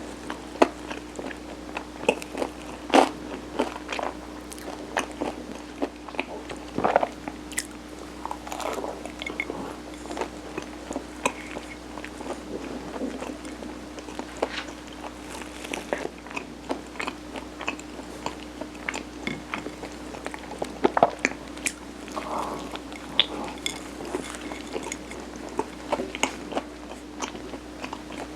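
Close-miked eating sounds of steamed rice cake layered with mung bean (sirutteok): biting and chewing with many small clicks and mouth smacks at irregular intervals.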